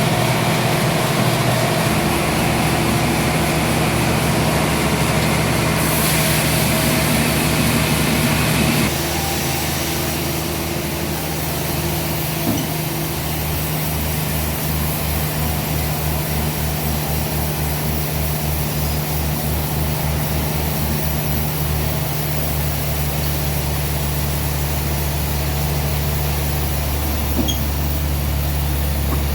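Sawmill machinery running steadily. It is louder and harsher for the first nine seconds or so, then settles to a somewhat quieter, even hum.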